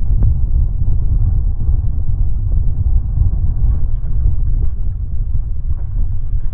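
Wind buffeting the microphone: a loud, steady, uneven low rumble.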